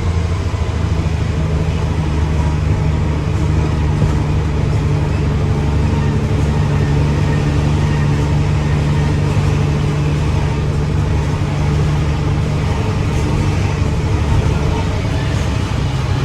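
Mack dump truck's diesel engine running steadily at a low, even pitch.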